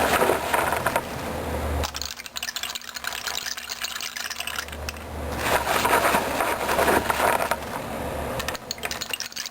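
Beans rattling and pouring through a snake-gourd rain stick in a rushing, rain-like rattle. It swells twice, once at the start and again about five seconds in.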